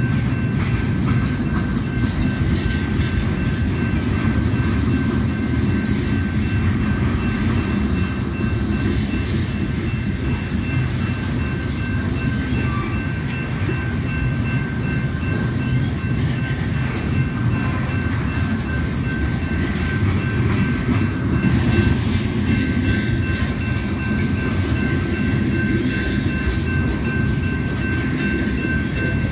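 Freight train of covered hopper cars rolling steadily past, a continuous rumble of steel wheels on rail. Over it a grade-crossing bell rings steadily.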